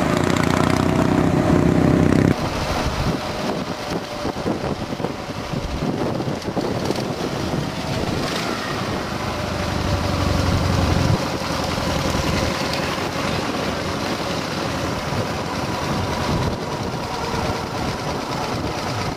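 Old Russian Ural motorcycle's flat-twin engine running on the move, mixed with road and wind noise; the low rumble drops away abruptly about two seconds in and again about eleven seconds in.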